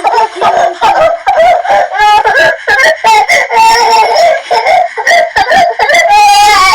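A high-pitched voice crying loudly, in quick broken sobs, with one long drawn-out wail near the end.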